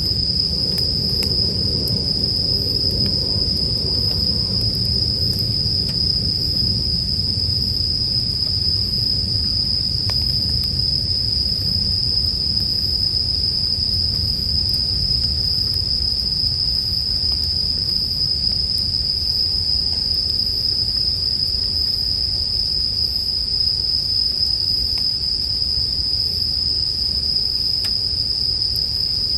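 Bell crickets (suzumushi) singing in a steady, high-pitched chorus, over a low campfire rumble with a few faint crackles.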